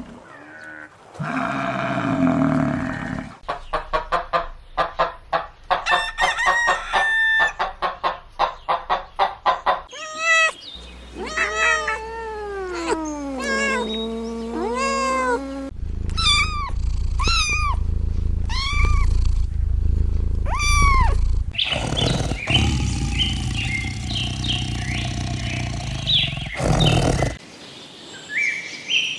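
A series of animal calls, several different kinds in turn: a rapid pulsing chatter, then sliding pitched calls, then about six repeated arching calls roughly a second apart, then more calls.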